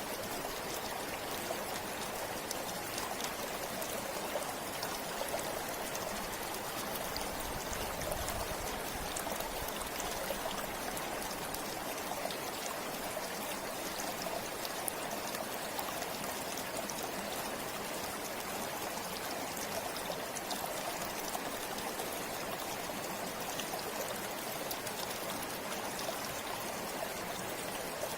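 River water flowing: a steady, unbroken rush with small trickling splashes throughout.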